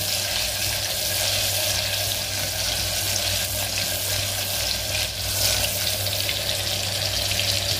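Beef-mince koftas sizzling steadily in hot oil in an aluminium pressure cooker as it is swirled by its handle; the meatballs are being part-fried so they brown on all sides.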